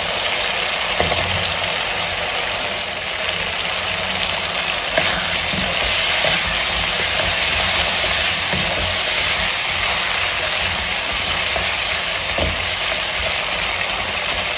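Potato cubes frying in oily tomato masala in a kadai, sizzling steadily while a wooden spatula stirs them, with a few knocks of the spatula against the pan. The sizzle grows louder around the middle.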